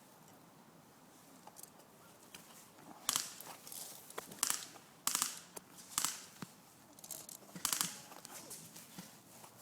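Close rustling and crunching from a player's movement, in a handful of short scraping bursts over the middle seconds.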